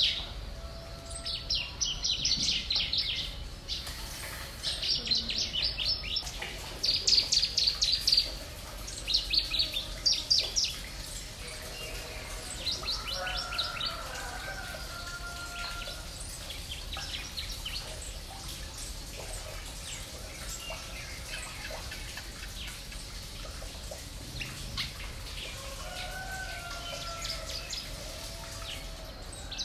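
Small birds chirping in rapid trilled bursts about a second long, repeated several times over the first ten seconds or so, then fainter.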